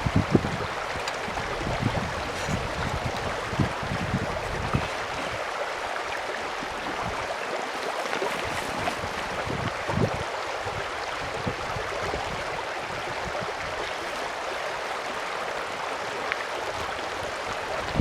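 Steady rush of a mountain stream, with a few soft knocks now and then.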